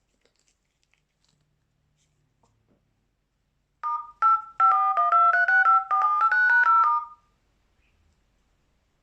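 A short electronic chime melody with two note lines playing together in quick, clipped steps, starting about four seconds in and lasting about three and a half seconds, like a ringtone.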